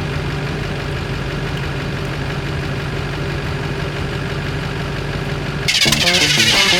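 Truck engine idling steadily, even and unchanging. Near the end it is cut off abruptly by music with plucked guitar notes.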